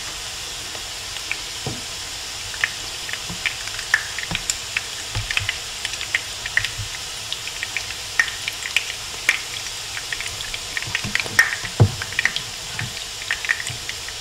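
Salmon patties shallow-frying in hot oil: a steady sizzle with frequent sharp crackles and pops of spitting grease.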